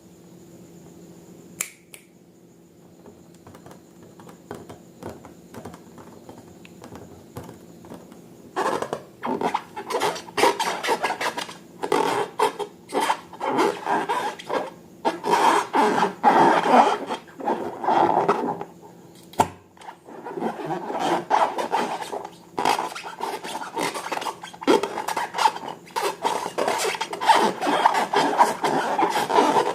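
Close-up sounds of slime being handled and mixed: irregular rubbing, scraping and squishing. It is faint at first apart from a single click, then becomes busy and dense from about a third of the way in.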